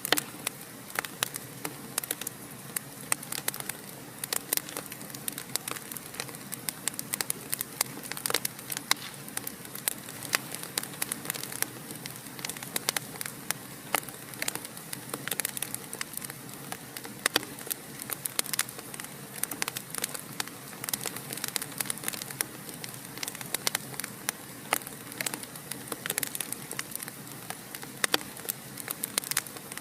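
Fire in a fireplace crackling: many irregular pops and snaps of varying loudness over a steady soft hiss.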